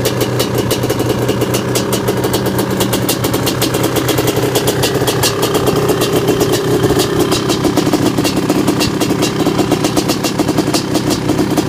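Honda CR550 Liger's big-bore two-stroke single-cylinder engine idling on its first startup, with a rapid, uneven crackle and the note lifting slightly about halfway through.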